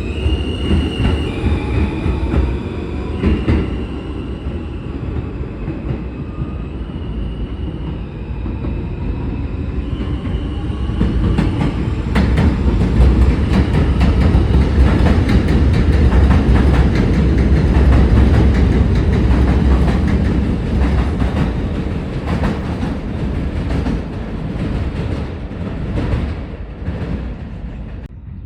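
A train passing close by, its low rumble building to a peak a little past halfway and then easing off. High-pitched wheel squeal on the rails sounds in the first several seconds, and the wheels clack rapidly over rail joints through the loudest part.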